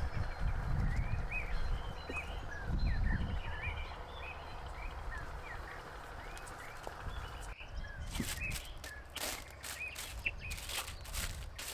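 Many small birds chirping in quick short calls over a low rumble. About two-thirds of the way through, the sound changes abruptly to a run of sharp clicks and crackles.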